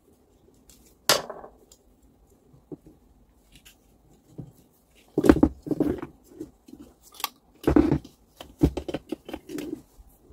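Parts and hand tools being handled during work on an angle grinder: scattered sharp clicks and knocks, one about a second in, then a busier run from about halfway through to near the end.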